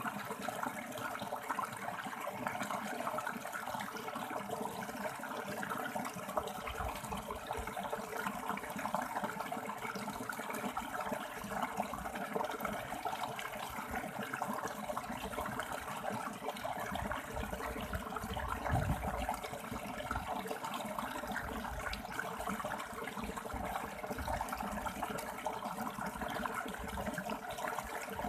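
River water flowing and rushing steadily over rocks, an even rushing sound without a break.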